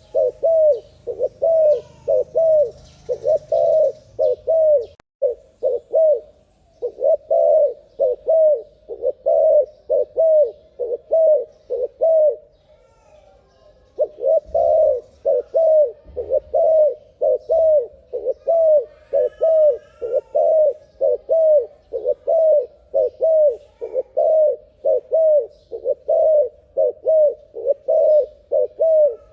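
Spotted dove (terkukur) cooing in a fast, even run of short notes, about two a second, with one pause of about two seconds midway.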